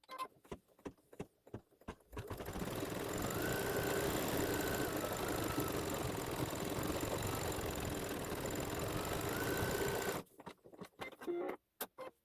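Embroidery machine stitching out a fill: a run of separate clicks for about two seconds, then steady fast stitching for about eight seconds, then clicks again as it stops.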